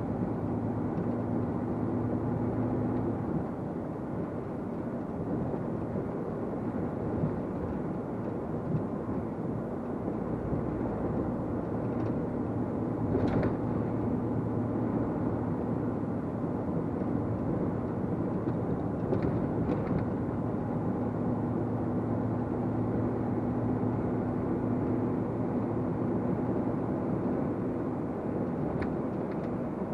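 A truck's diesel engine and road noise heard inside the cab, a steady drone as the truck pulls uphill, with a few faint clicks.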